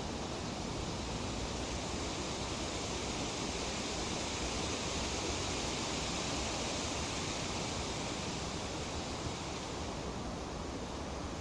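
Breeze rustling through tree leaves as a steady hiss. It swells in the middle and eases off near the end.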